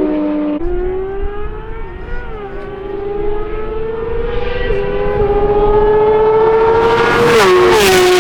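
A sports car engine accelerating hard through the gears. Its pitch climbs steadily, then drops at each upshift, about three times. Near the end there is a loud rush of noise.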